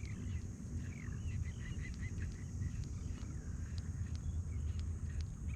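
Birds chirping in short, curving calls again and again over a steady low rumble, with a few faint clicks scattered through.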